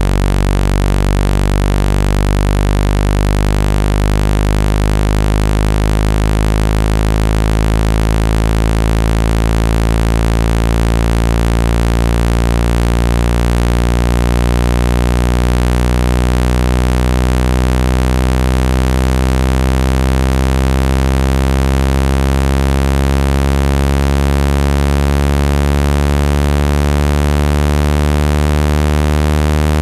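Synthesized water-ejecting speaker-cleaning tone: a loud, steady low buzz rich in overtones, its pitch slowly rising.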